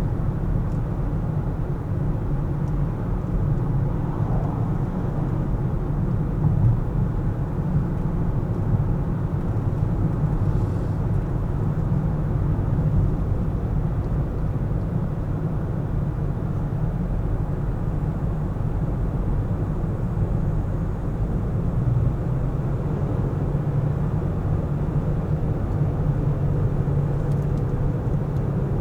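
Car driving in city traffic: a steady low rumble of engine and tyres on the road.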